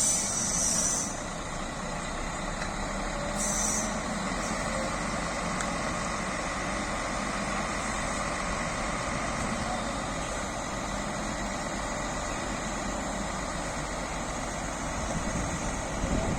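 Heavy-vehicle engines running steadily, with two short hisses of air: one at the start lasting about a second, one at about three and a half seconds.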